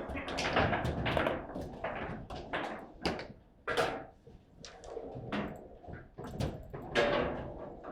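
A table football game in play: irregular sharp knocks and clacks as the ball is struck by the player figures and bangs against the table, with heavier thuds among them.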